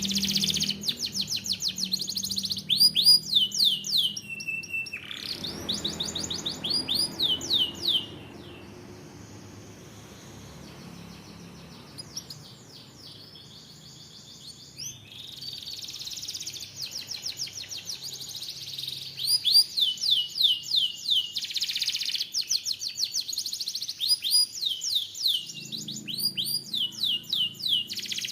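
Canary singing in fast trills of repeated downward-sweeping notes. The song breaks off for several quieter seconds in the middle, then resumes.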